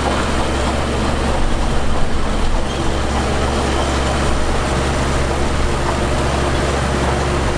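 Heavy diesel earthmoving machinery running steadily, with a brief swell in loudness about two seconds in.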